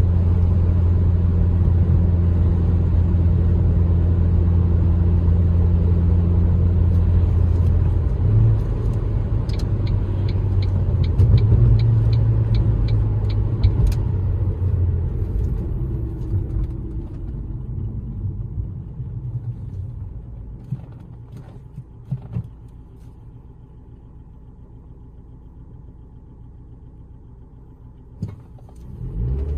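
Ford Focus SVT's four-cylinder engine and road noise heard from inside the cabin: a steady low drone while cruising that eases off about halfway through as the car slows, leaving a quiet low hum, before the engine note picks up again near the end. Midway a run of regular ticks, about two a second, sounds for a few seconds.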